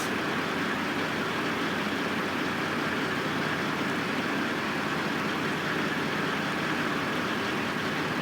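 Construction-site machinery running: a steady, unchanging engine drone.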